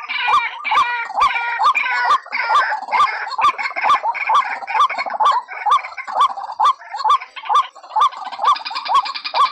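White-breasted waterhen calling: a steady run of repeated croaking notes, about two a second, over a busier chatter of higher calls that thins out for a few seconds past the middle.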